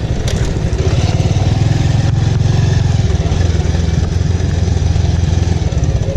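Bajaj Avenger motorcycle's single-cylinder engine running steadily as the bike is ridden, a dense low rumble of rapid firing pulses under a steady rush of noise.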